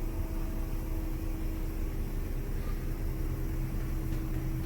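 Old Penn Zephyr ceiling exhaust fan (a small blower) running steadily: an even rush of air with a low, steady hum. It runs nice and quiet, with no sign of loose or worn bearings.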